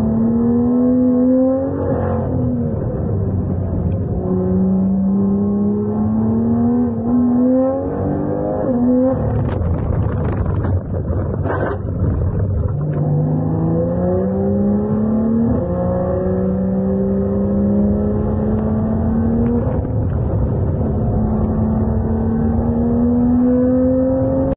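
BMW's engine heard from inside the cabin, its note climbing steadily in pitch under acceleration and dropping back at gear changes and braking, several times over. A rougher rush of noise sits about ten seconds in.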